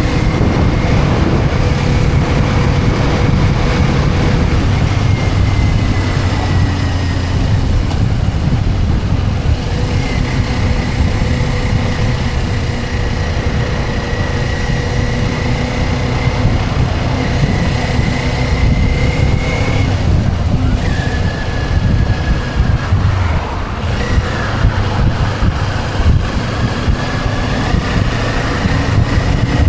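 Motorcycle engine running at a steady cruise under a heavy low rumble of wind and road noise. Its pitch drifts up and down gently with the throttle, and it changes about twenty seconds in.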